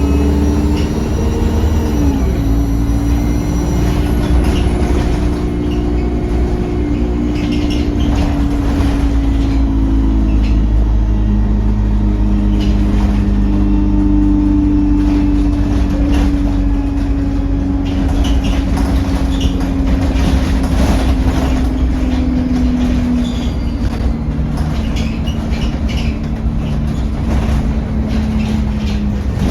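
Service bus heard on board while driving: steady engine and drivetrain drone with a low rumble, its pitch rising and falling slowly with road speed.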